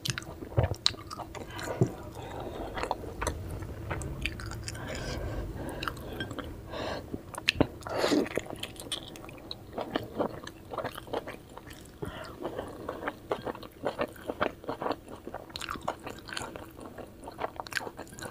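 A person chewing and biting soft steamed vegetable momos close to the microphone, with many short, irregular mouth clicks.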